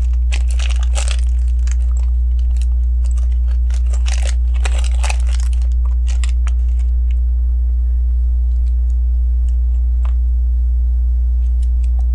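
Hands handling small plastic Lego bricks: rattling and rustling of pieces for the first six seconds or so, then scattered small clicks as bricks are fitted, over a steady low electrical hum.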